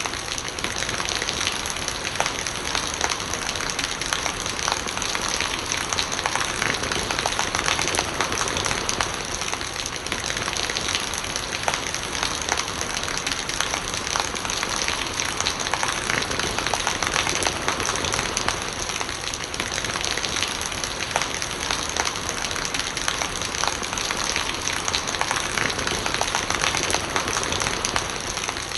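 Steady rain falling on surfaces, a dense hiss of countless drops, with rainwater running and gurgling.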